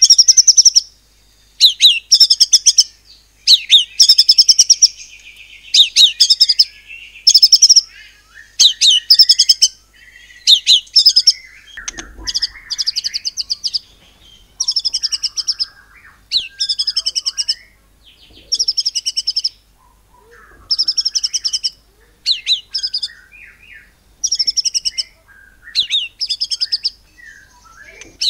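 White-rumped shama singing a run of short, rapid-fire phrases, each a quick stutter of high notes about a second long, repeated roughly every two seconds.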